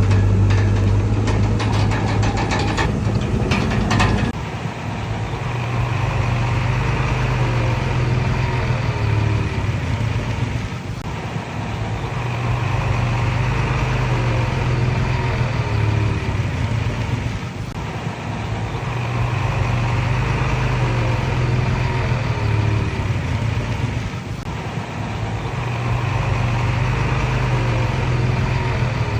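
Bulldozer's diesel engine running under work, swelling and easing in a repeating cycle every six to seven seconds, with short squeals during the louder stretches. Rattling clicks sound over the engine for the first four seconds.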